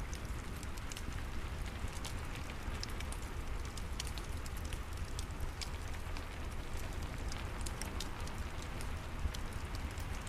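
Steady rain mixed with a crackling wood fire: an even hiss and low rumble, with frequent small sharp pops and ticks scattered through it.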